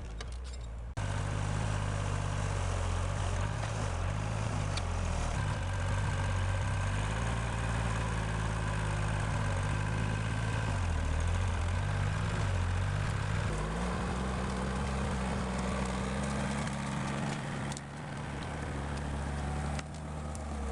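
Homemade forwarder's engine running under load, its pitch stepping up and down as it is revved.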